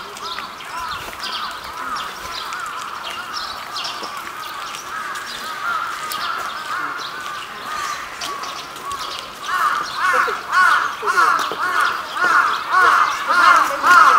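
Birds calling in a quick series of short, arched notes, a few each second. The calls are faint at first and grow louder and denser about two-thirds of the way in.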